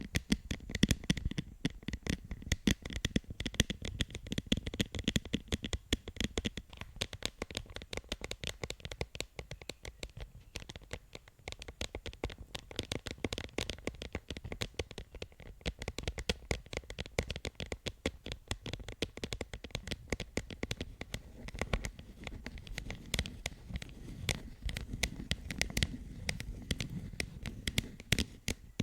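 ASMR tapping and scratching by fingers on objects close to the microphone: a dense run of fast, crisp clicks, many a second, with slightly fuller, lower-sounding taps near the end.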